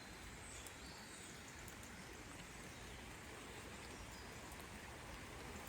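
Faint outdoor background noise in woodland: a low, even hiss with no distinct sound standing out.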